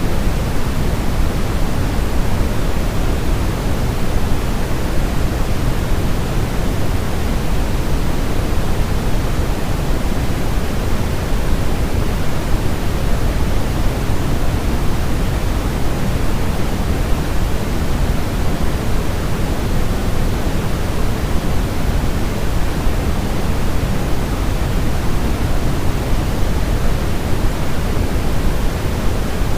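Steady, unbroken synthetic noise of the kind played to settle a baby to sleep: a deep hiss weighted toward the low end, with no changes.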